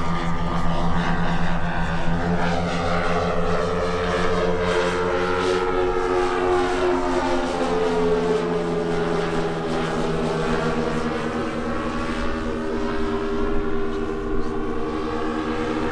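Twin-engined quarter-scale RC Beech-18 model's piston engines and propellers droning in flight. The drone is steady and loud, its pitch easing down a little through the middle as the plane passes.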